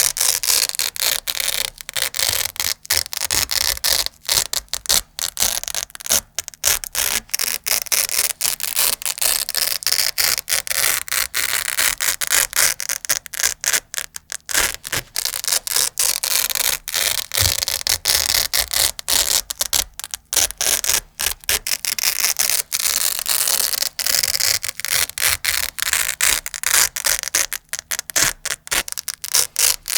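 Hook-and-loop Velcro ripped apart over and over close to the microphone: a long run of crunchy, scratchy tearing strokes with short pauses between them.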